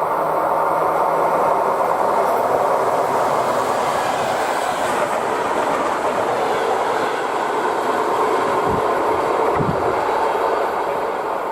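ER2 electric multiple unit passing at speed: a loud, steady rush of wheel and running noise that builds over the first couple of seconds, holds, and eases off near the end.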